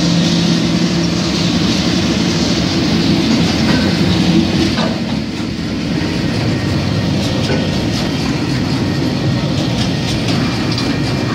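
TasRail TR class diesel-electric locomotive passing with a steady engine hum, which fades after about four and a half seconds as loaded log wagons roll by, their wheels clattering and clicking over the rail joints.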